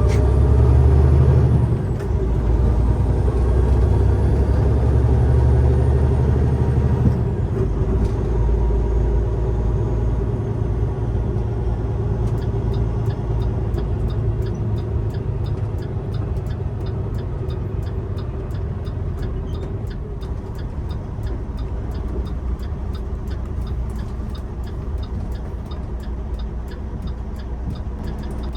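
Semi-truck engine running with a steady low rumble, heavier for the first seven seconds or so and then settling to an even drone. A faint regular ticking comes in about twelve seconds in.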